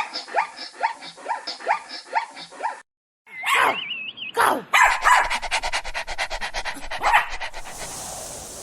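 Dog vocalising: a run of quick repeated yelps, about four a second, then after a short break a wavering whine and fast rhythmic pulsing.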